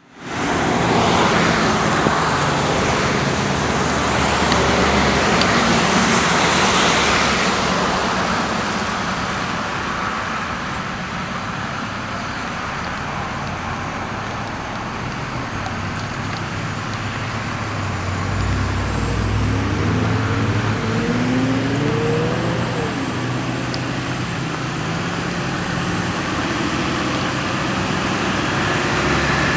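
Heavy fire apparatus driving on the road with traffic around it. About two-thirds of the way in, a diesel engine runs up through its revs as a rig accelerates.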